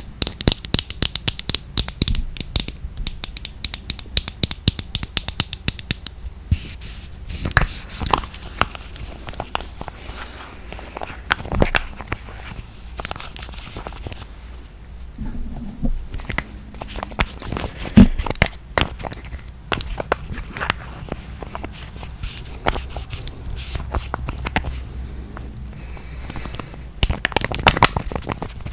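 Fingernails tapping and scratching on makeup packaging, with a fast run of taps in the first six seconds, then scattered clicks, scrapes and rustles.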